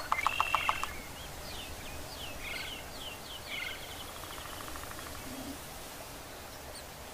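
Small bird calling: a quick trill in the first second, then a run of short, high chirps, over a steady hiss of outdoor ambience.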